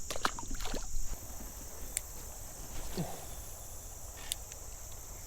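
Steady high-pitched chorus of insects, with a few light knocks in the first second and sharp single clicks about two and four seconds in.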